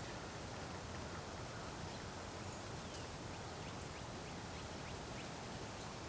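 Steady hiss of still winter outdoor ambience, with faint high bird calls in the middle: one short falling note, then a quick run of about seven short chips.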